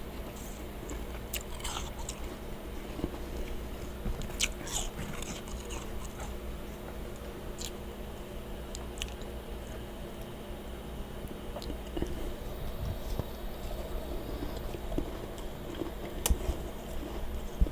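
Mouth chewing and crunching powdery freezer frost, with scattered sharp crunches, a cluster about four seconds in and another near the end. A steady low hum runs underneath.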